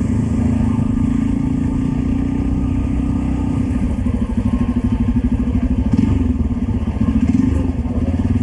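Hero XPulse single-cylinder motorcycle engine running on the road, steady at first, then turning to a throbbing, uneven beat about halfway through.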